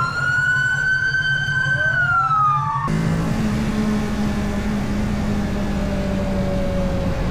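A wailing siren-like tone that holds, then slides down in pitch and cuts off abruptly about three seconds in, followed by the steady noise of a motorcycle riding along, with engine drone and wind rush.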